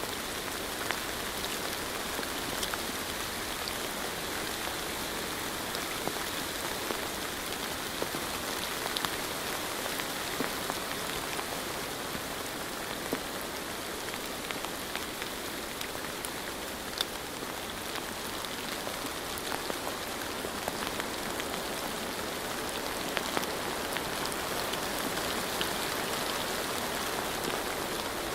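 Steady rainfall: a continuous hiss of rain with scattered individual drops ticking on a surface.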